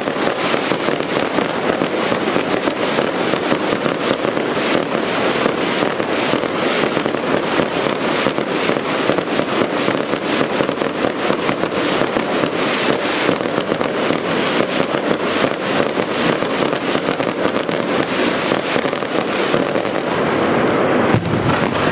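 Daylight fireworks barrage: a dense, unbroken rapid fire of firecracker bangs, many a second, with the sharpest crackle thinning out near the end.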